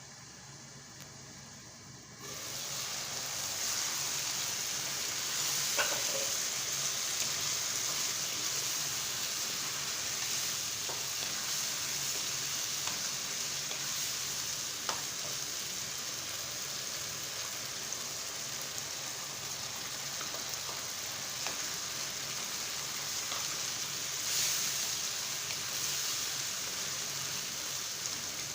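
Food sizzling in a hot pan. The sizzle starts suddenly about two seconds in and then holds steady, with a few light clicks that are likely a utensil stirring.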